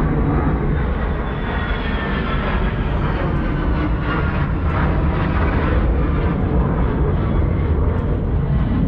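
Steady, loud engine noise of an airplane flying past, with faint engine tones that glide slightly in pitch.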